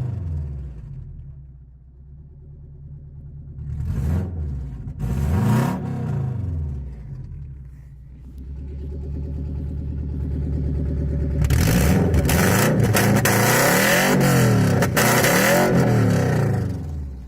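Car engine revving through a straight-through exhaust with the resonator removed: two short blips of the throttle, then revs climbing, then loud, rough revving with several rises and falls before it drops back near the end.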